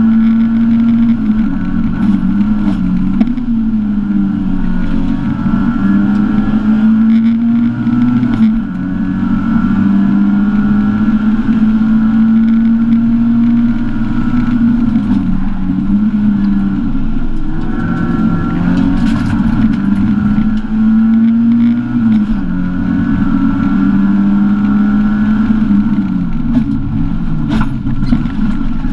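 Lada Samara rally car's four-cylinder engine running hard at high revs, heard from inside the cabin. Its pitch holds steady for several seconds at a time and dips briefly about five times at gear changes.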